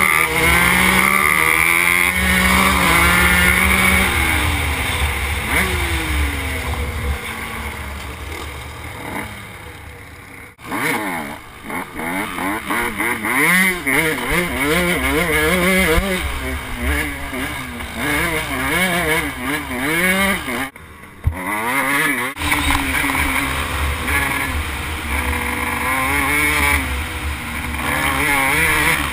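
Dirt bike engines revving up and falling back again and again, as when riding through the gears. The sound breaks off abruptly twice.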